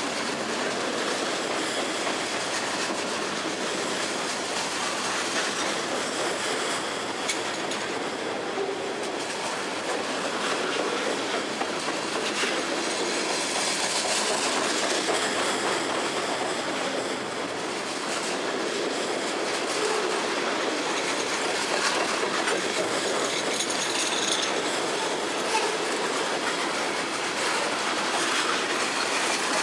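Freight train cars rolling past at close range: the steady rattle of steel wheels on rail, with the clickety-clack of the wheels over rail joints running throughout.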